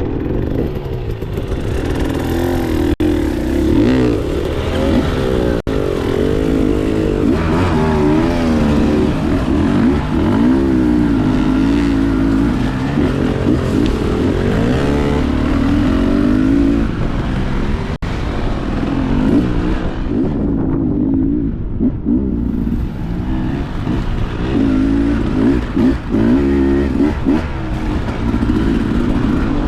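Dirt bike engine running under constantly changing throttle, its pitch rising and falling as it is revved and eased off, with a brief drop in revs about two-thirds of the way through.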